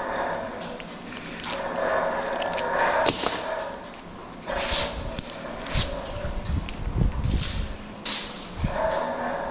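Scrap air-conditioner parts being smashed apart by hand: a string of irregular metal knocks and clanks, some with dull thuds, in the middle of the stretch. A steady droning whine runs at the start and again near the end.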